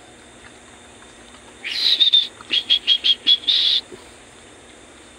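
A bird calling loudly and high-pitched: a longer note, then a quick run of about six short notes, ending on another longer note.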